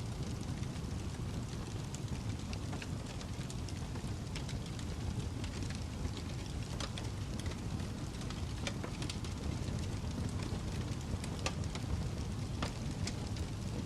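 Wood fire crackling in a fireplace: a steady low rumble with frequent small pops and snaps.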